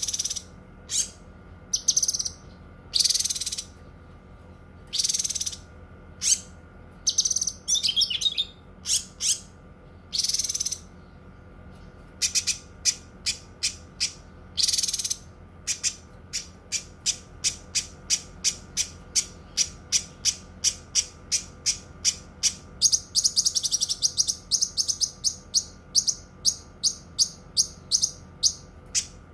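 A cucak kinoi singing loud, high-pitched whistled notes. Separate phrases in the first half give way to a fast run of sharp repeated notes, about three a second, with a brief rapid trill a little before the end.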